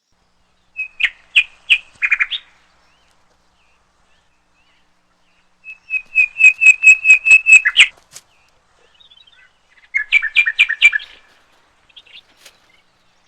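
A songbird singing three phrases of rapid, repeated chirping notes, the middle phrase the longest and loudest.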